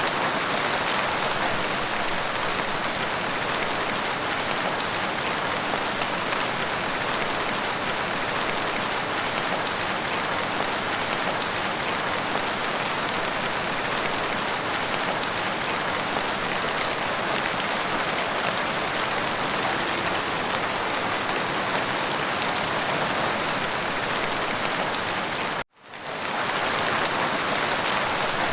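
Steady rain falling, an even hiss of drops. It cuts out abruptly about 26 seconds in and fades back up within a second.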